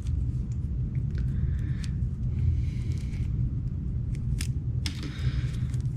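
Small parts and packaging handled by hand: scattered light clicks and a soft rustle of plastic over a steady low hum.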